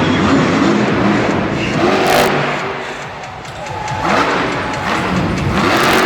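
Monster truck engine revving hard. It eases off about three seconds in, then builds back up with rising pitch.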